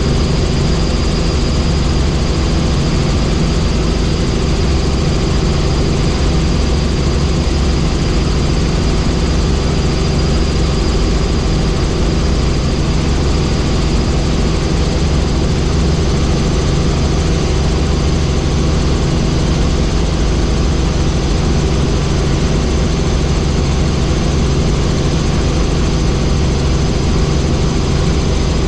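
Helicopter in flight: steady, loud drone of the rotor and turbine engine, with several fixed tones over a constant rush of noise.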